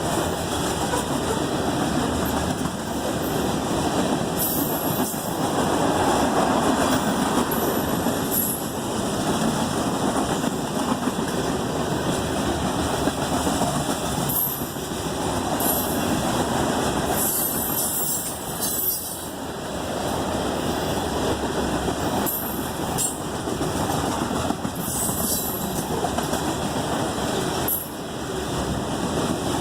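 Freight cars of a CSX train rolling past, a steady rumble and clatter of steel wheels on the rails, with short high-pitched squeals from the wheels at irregular moments.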